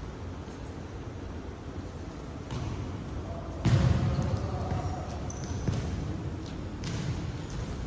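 A heavy thump about three and a half seconds in, then a few lighter knocks, over a steady low rumble.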